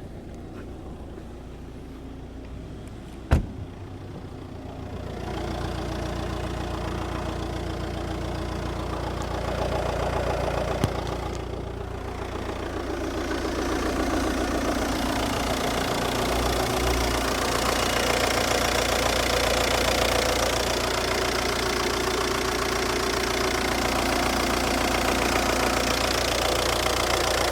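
Audi 2.0 TDI BRD four-cylinder diesel engine running at idle, heard with the hood open, with a metallic noise that sounds very bad, worst from the exhaust side by the airbox; its cause is unknown. A sharp click about three seconds in, and the engine grows louder about five seconds in.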